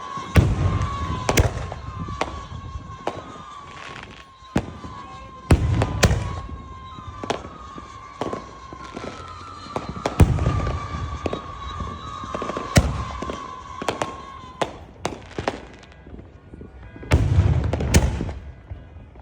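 Fireworks going off: a rapid series of sharp bangs with several heavy, deep booms, over a string of short whistles that each slide slightly down in pitch and stop about three-quarters of the way through.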